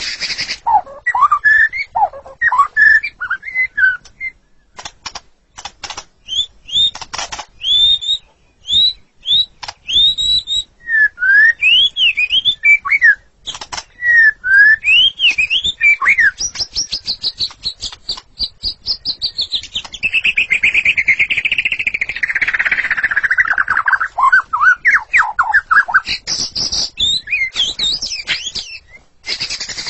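White-rumped shama singing a long, varied song. Sweeping whistled notes rise and fall one after another. There are sharp clicking notes in the first few seconds, and about two-thirds of the way through comes a long, dense warbled passage that slides down in pitch.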